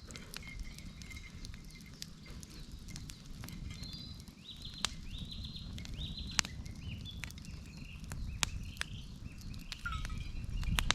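Wood campfire burning, crackling with scattered sharp pops over a low steady rumble of the flames.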